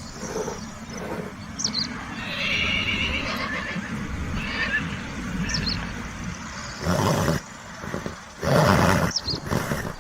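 A horse whinnying: a high, wavering neigh about two seconds in, then two loud, short, noisy blasts later on.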